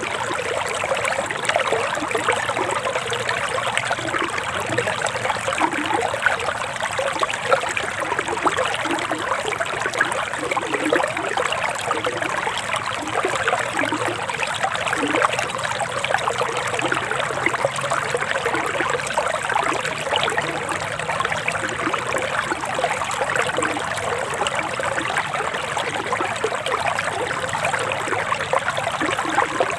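Forest river water flowing and trickling steadily.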